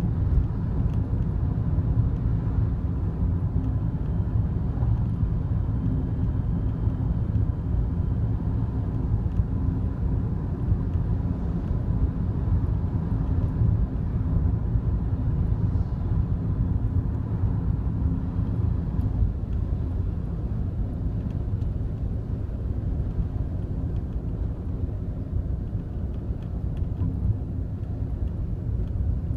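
Steady interior road and engine drone of a Daihatsu Wake kei car on the move, with a few faint, scattered ticks over it: the rattle that the owner suspects comes from near the passenger-side drink holder.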